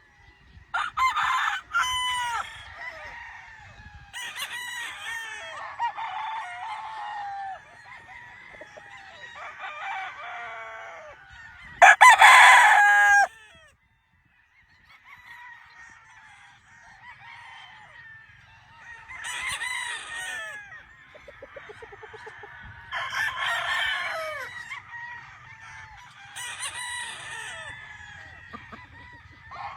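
Several gamefowl roosters crowing one after another, with clucking between the crows; one loud close crow about halfway through.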